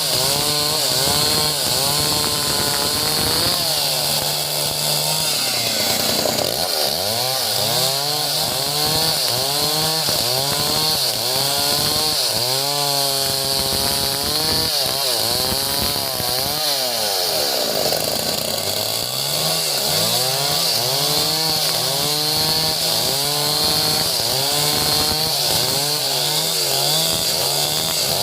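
Two-stroke chainsaw sawing a log into lumber. The engine pitch keeps dropping under load and climbing again as the chain works through the cut.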